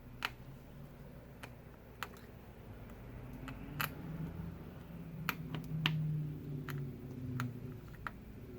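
Small, sharp clicks and taps of hand tools and a metal bracket against an iPad Pro's frame as the bracket is worked into place, about nine scattered clicks at irregular intervals. A faint low hum runs under them and swells a little in the middle.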